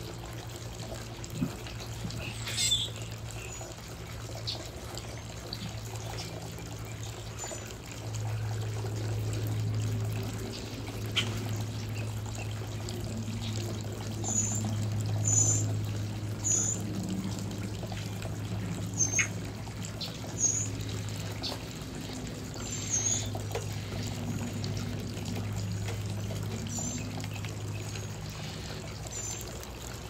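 Birds at a feeder chirping: about a dozen short, high calls scattered through, over a steady low hum and trickling background.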